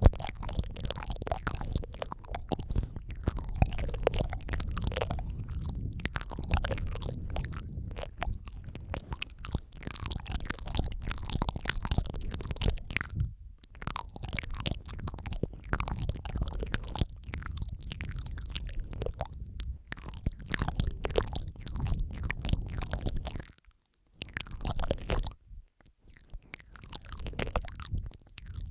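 ASMR mouth sounds close to the microphone: wet clicks, smacks and licking sounds, several tracks layered over one another, with brief pauses a few seconds before the end.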